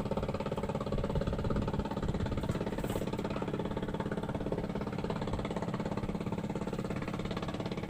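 A small engine running steadily at an even speed, with a fast regular throb.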